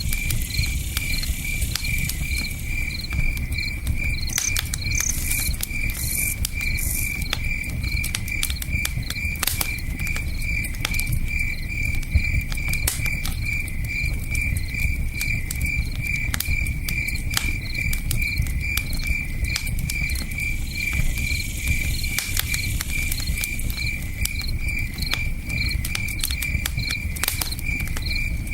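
Crickets chirping in a steady, even pulse over the low, constant rush of a river, with sharp pops and crackles from a campfire scattered throughout.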